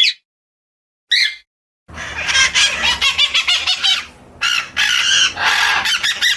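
Birds calling: a couple of short single chirps, then about two seconds in a dense run of rapid, chattering high calls that continues, with a brief dip in the middle.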